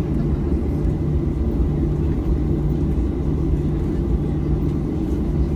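Steady low rumble with a constant hum inside the cabin of a Boeing 737-800 after landing, its engines running.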